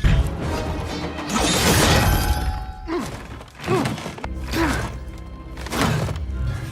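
Film fight-scene soundtrack: dramatic score under a run of hits and thuds from the blows of a brawl, the heaviest about a second and a half in.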